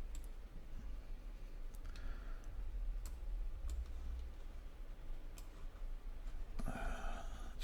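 A handful of computer mouse clicks, sharp and spaced irregularly a second or so apart, over a faint low hum.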